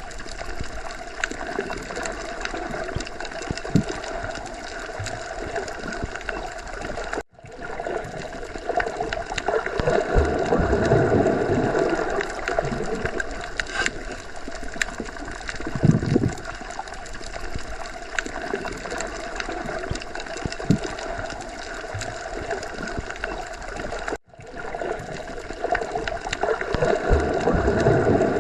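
Underwater sea ambience: a steady gurgling water wash that swells and eases, with occasional low thuds. It cuts out for an instant twice.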